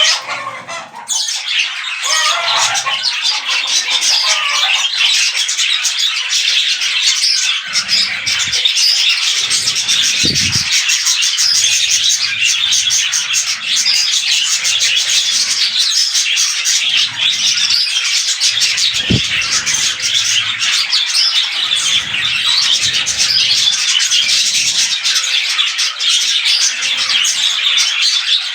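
Budgerigars chattering continuously, a dense mix of squawks and chirps.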